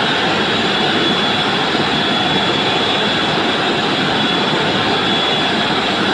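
Hydroelectric power-plant turbine running: a steady, loud mechanical rush with a thin high whine held over it.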